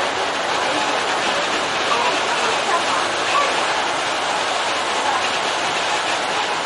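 Kintetsu commuter train running along the line, heard from the front cab: a steady rushing noise of wheels rolling on the rails.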